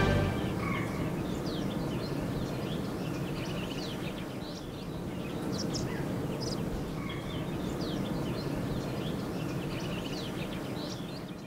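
Small birds chirping, with many short high calls scattered throughout, over a steady low background noise of outdoor ambience.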